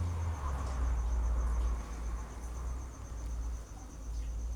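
Crickets chirring in a steady, evenly pulsed high trill, over a low rumble that is strongest in the first couple of seconds.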